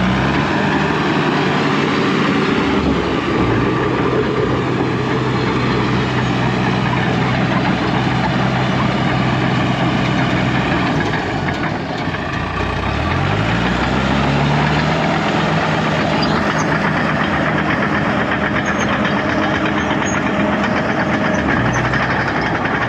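Dressta TD-8H crawler dozer's diesel engine running steadily. About thirteen seconds in its speed rises, and it holds at the higher speed.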